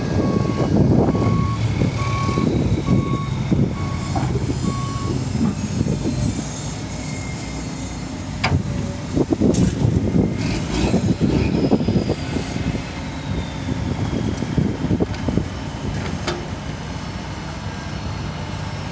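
Diesel engines of an excavator and dump truck running, with a reversing alarm beeping evenly, a little faster than once a second, until about five seconds in. A few sharp clanks and knocks stand out over the rumble.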